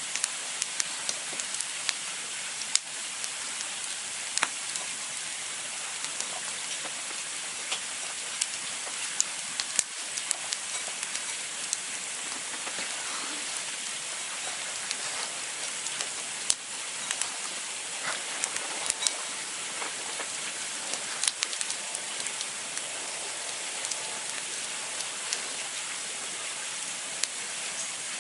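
Campfire burning with a steady hiss and irregular sharp crackles and pops of the wood.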